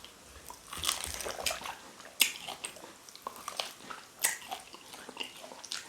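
Wet chewing and biting while eating cow tail in pepper soup, with a few sharp clicks among the mouth sounds.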